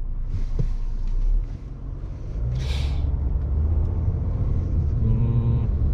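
Car on the move, heard from inside: a steady low road and engine rumble, with a short hiss about two and a half seconds in.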